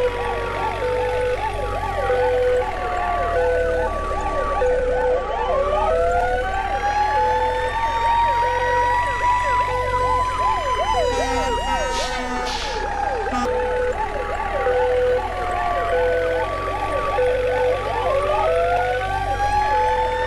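Several emergency sirens sounding at once: a fast yelp sweeping up and down several times a second, a steady two-tone hi-lo, and a slower wail that rises and falls twice.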